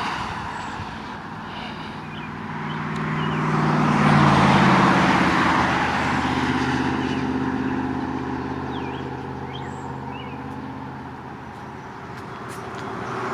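Road traffic passing: a vehicle's tyre noise swells to a peak about four seconds in, its engine hum dropping in pitch as it goes by, followed by a steady hum and another vehicle approaching near the end.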